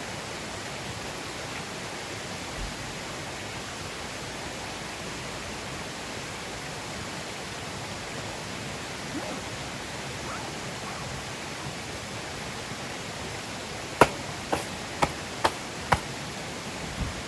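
Wood campfire burning with a steady hiss, then a quick run of five or six sharp pops and cracks from the burning wood near the end.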